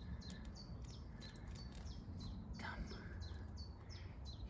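A small bird calling over and over: short, high chips that drop in pitch, about three a second, over a low wind rumble.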